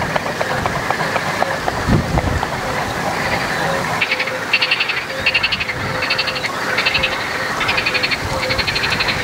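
Frogs calling in a chorus: a low note repeated about twice a second, joined from about four seconds in by loud, fast-pulsed rattling calls in short, repeated bursts.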